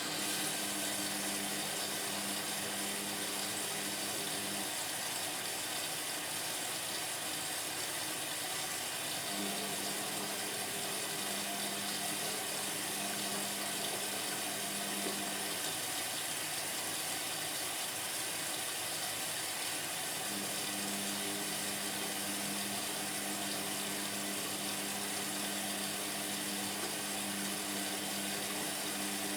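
Indesit washing machine filling with water through its inlet valve: a steady rush of water that starts suddenly, with a low hum that comes and goes three times over the fill.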